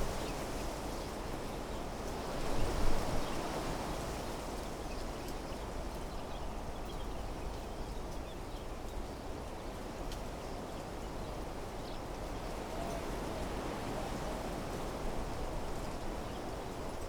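Wind blowing through desert-meadow trees and shrubs, a steady rustle with a stronger gust about two to three seconds in. Faint high chirps are scattered through it.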